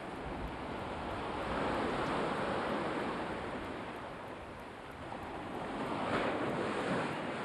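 Black Sea waves breaking and washing in, swelling about a second and a half in and again around six seconds.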